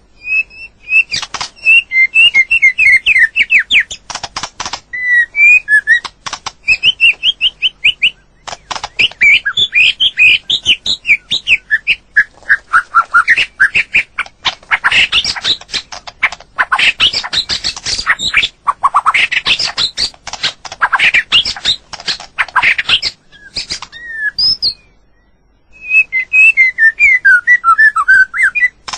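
White-rumped shama singing: fast, varied phrases of clear whistled notes that slide up and down, mixed with sharp clicking notes. There is a short pause about 25 seconds in.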